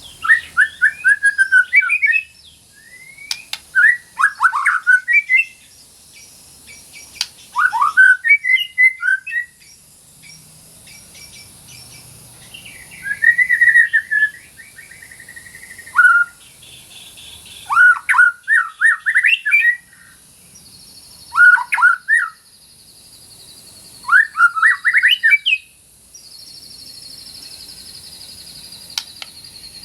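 White-rumped shama (murai batu) singing loud, rapid phrases of sweeping whistled notes, about one phrase every two to three seconds. A steady high buzzing trill joins in the last third.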